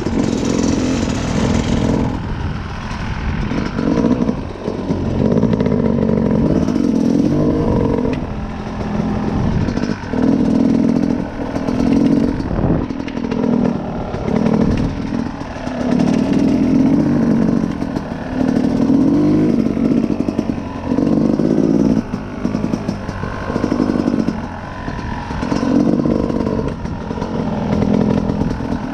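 Dirt bike engine being ridden, the throttle opened and closed again and again, rising and falling every second or two.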